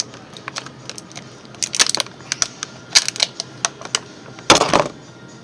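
Small plastic toy figures being handled, with scattered light clicks and clatters; a short, louder clatter comes about four and a half seconds in.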